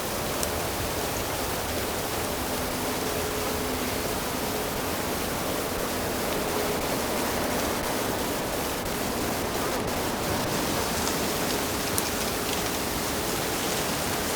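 Rushing water of a fast stream or river, a steady, even hiss.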